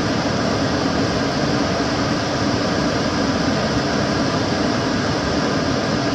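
Kitchen cooker hood extractor fan running steadily: an even rush of air with a low hum underneath.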